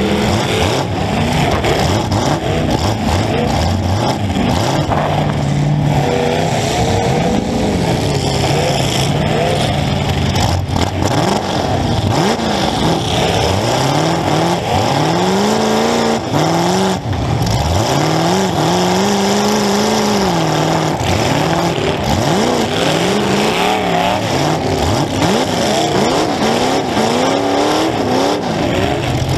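Demolition derby car engines revving up and falling back over and over, several engines at once, heard from inside a car in the derby.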